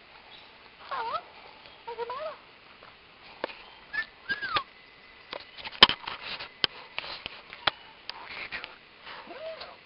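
Caged parrot giving short squawky calls that swoop up and down in pitch, about five of them, mixed with a scatter of sharp clicks and taps; one loud click falls a little before the middle.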